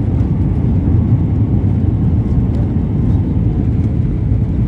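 Steady low rumble of jet airliner cabin noise, engines and airflow heard from inside the cabin.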